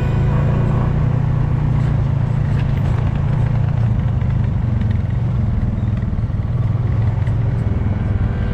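ATV engine running steadily while riding, a continuous low drone.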